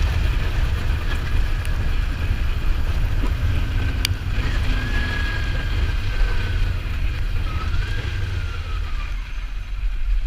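Riding on a Kawasaki Ninja 400 with its parallel-twin engine running under heavy wind noise on the microphone, a steady low rumble and rush. A single sharp click about four seconds in, and a faint whine that slides slowly down in pitch through the middle.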